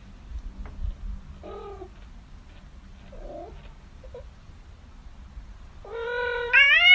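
Domestic cat meowing: two faint short calls, then about six seconds in a long, loud drawn-out meow that rises and then falls.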